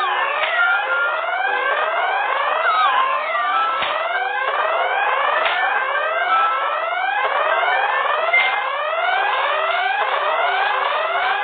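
Electronic siren-style alarm sound effects: many overlapping rising whoops repeating several times a second, with short steady beeps and a falling whistle glide about three seconds in.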